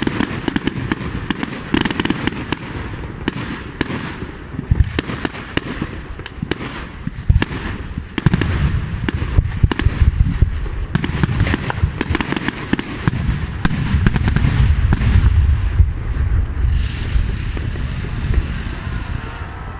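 Aerial fireworks display: a rapid, continuous run of cracks and bangs with crackling, the deep booms growing denser and heavier in the second half.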